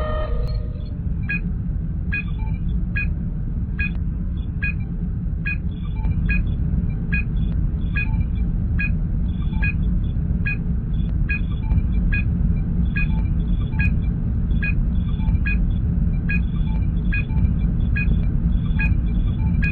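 Science-fiction starship sound effect: a steady low engine rumble with a short electronic scanner beep repeating evenly, a little more than once a second.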